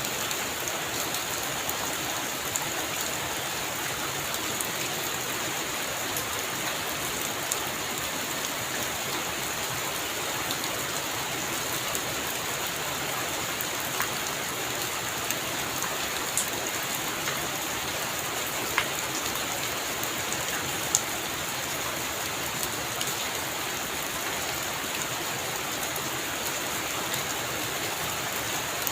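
Heavy rain falling steadily on a roof, an even hiss with a few sharper drop hits scattered through, the loudest about two-thirds of the way in.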